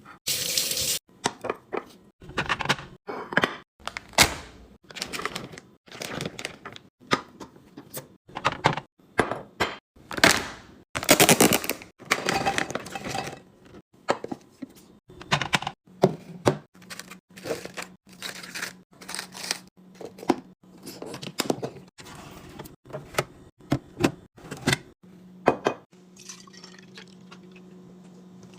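Food containers and packaging being handled and set down while arranging a refrigerator: a busy run of clicks, knocks and clatters with a few longer noisy stretches. A low steady hum comes in about halfway.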